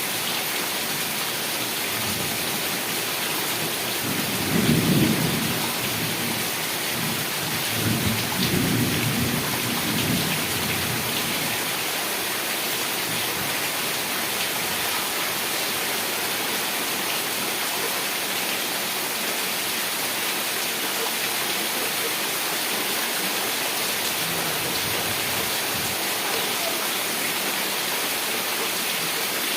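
Heavy rain falling steadily, with two low rumbles of thunder a few seconds in, the first the louder.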